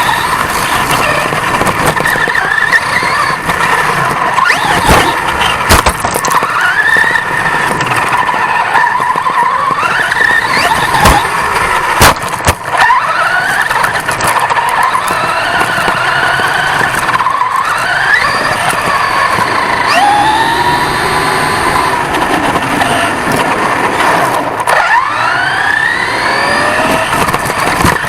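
On-board sound of a 1/10-scale off-road RC truck racing: its motor and drivetrain whine, rising and falling in pitch again and again with the throttle, over loud tyre and chassis noise. Sharp knocks come through as the truck bounces over the rough ground.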